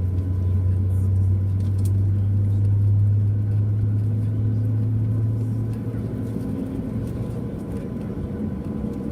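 Steady low drone in the cabin of a Boeing 737-800 on the ground, a deep hum with a few fixed tones, easing somewhat about six seconds in.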